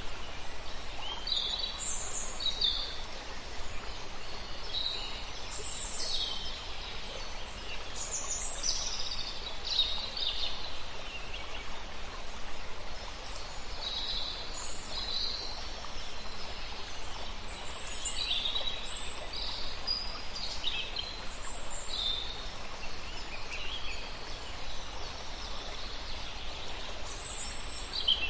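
Several wild birds calling and chirping, short high calls scattered throughout, over a steady background hiss.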